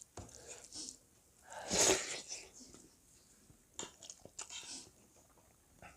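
Close-up eating sounds: soft chewing, mouth clicks and lip smacks. About two seconds in there is a louder hissing intake of breath.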